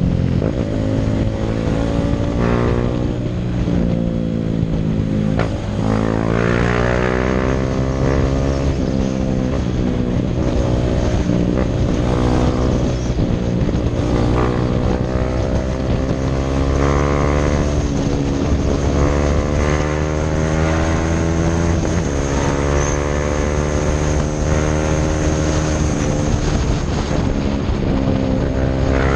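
KTM Duke 390's single-cylinder engine through a Mivv aftermarket exhaust, ridden hard: the engine note rises through each gear and drops sharply at each upshift, several times over.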